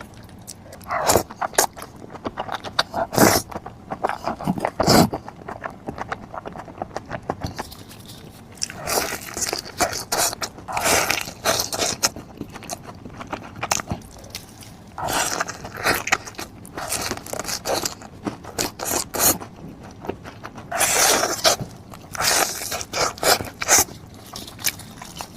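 A person eating close to the microphone: chewing and crunching in irregular bursts of clicks and scrapes, with short pauses between mouthfuls.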